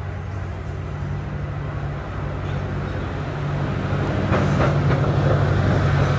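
A DEMU (diesel-electric multiple unit) passenger train pulling into a station platform, its diesel engine giving a steady low hum. The sound grows louder about four seconds in as the train draws alongside, with a few brief clanks.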